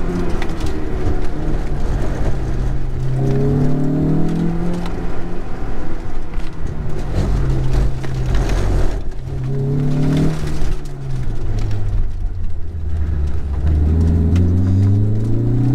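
Honda S2000's four-cylinder engine under hard autocross driving on a wet course. It revs up several times as the car accelerates and falls back in pitch between pulls.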